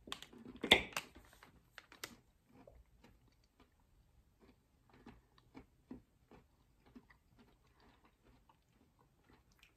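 Quiet, irregular crunchy clicks of chewing a vegan chocolate bar with crunchy puffed bits and raisins, with one louder crackle about a second in.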